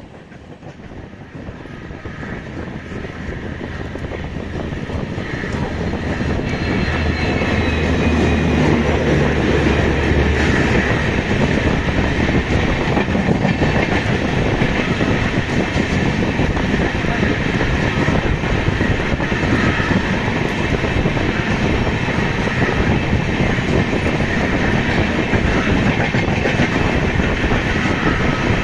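A train running on the rails, growing louder over the first eight seconds or so and then holding steady.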